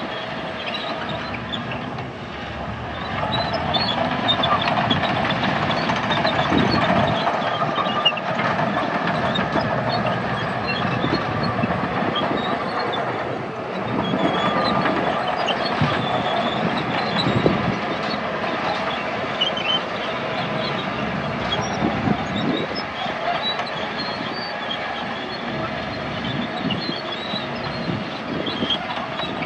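Crawler bulldozer working, its diesel engine running steadily under load while the steel tracks clank and squeak.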